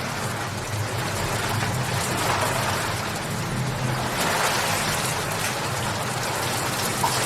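Steady rain falling: an even hiss of many drops pattering, with a steady low rumble underneath.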